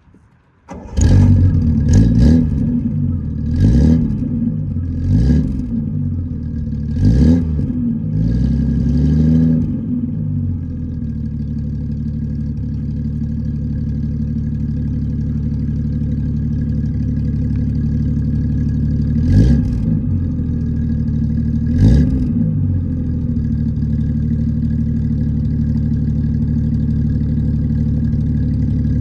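Triumph TR6's 2.5-litre straight-six starting up about a second in, revved in quick blips five times, then settling into a steady idle. It is blipped twice more about two-thirds of the way through.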